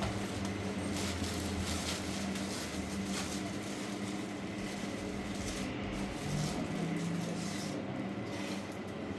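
A vehicle running steadily: a low engine hum under constant road or wind noise.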